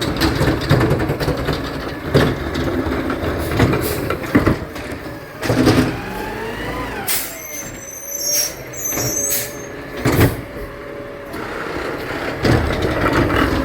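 Garbage truck running, with several sharp clanks and knocks and, about halfway, a tone that slides in pitch, followed by a few seconds of high, thin squeal or hiss.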